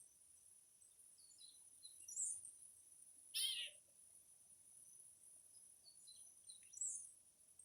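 Wild birds calling faintly: scattered short chirps, the loudest a falling call about three and a half seconds in, with others around two and seven seconds in. A steady high-pitched hiss runs under them.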